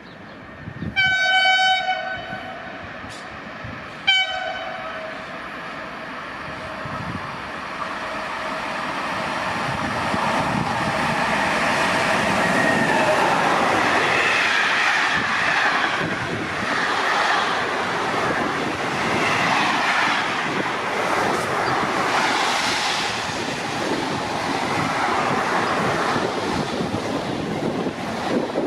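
A train sounds its horn, one blast of about a second followed by a short second blast, then runs through the station, its passing rumble and rail clatter building and staying loud.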